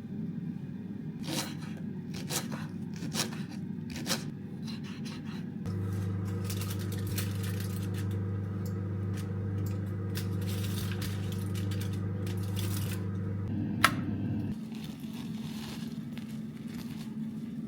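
Handling noises with a few short clicks and scrapes, then a steady low hum, like a small appliance motor, that starts about six seconds in and stops about eight seconds later, just after a sharp click.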